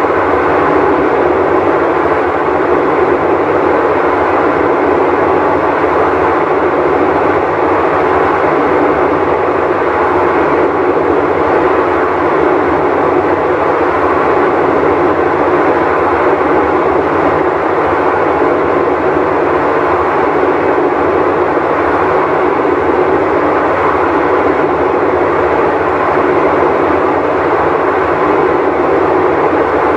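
Whirlpool Cabrio top-load washer running with a loud, steady, unbroken rumbling noise from its worn drum bearing.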